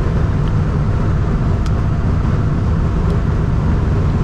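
Steady road and engine noise of a vehicle cruising at highway speed, heard from inside the cab: a constant deep rumble with tyre hiss over it.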